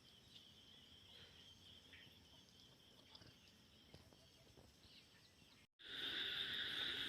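Near silence with faint background insects chirping in a steady high band; after a break in the sound about six seconds in, the same kind of steady high chirring comes back noticeably louder.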